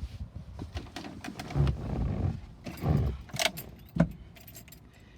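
Car keys jangling, with scattered clicks and a few dull thumps, as the ignition key is readied; the engine is not yet running.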